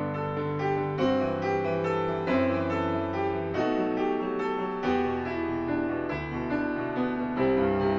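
Solo piano playing a slow, gentle piece: held bass notes under a melody, with new notes and chords struck about every half second to second.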